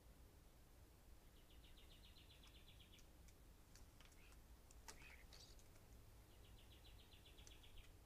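Faint bird calls: two short, even trills, each about a second and a half long, one about a second in and one near the end, with scattered chirps and clicks between them.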